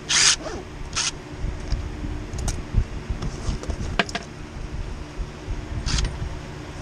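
Box fan running with a steady hum. Brief scraping, rustling noises about a second in and again near the end, and a few sharp clicks of work being handled.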